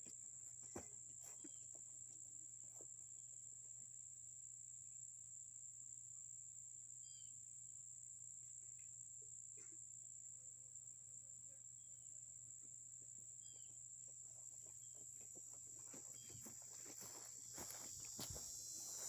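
Faint steady high-pitched insect trill, like crickets or katydids, with a few faint short chirps and soft clicks here and there.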